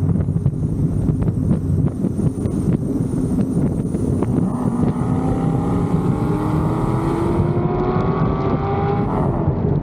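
Big-cam LS7 V8 of a C6 Corvette Z06 running under way, with wind buffeting the microphone. About halfway through the engine pulls hard, its pitch climbing steadily for some four seconds before it lets off near the end.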